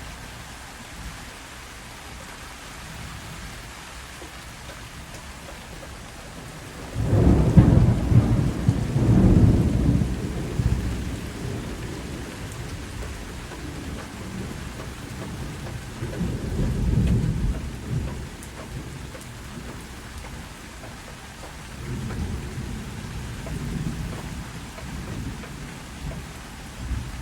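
Steady rain falling on a garden, with a low rumble of thunder that breaks in suddenly about seven seconds in and is loudest for a few seconds, then fainter rolls of thunder twice more later on.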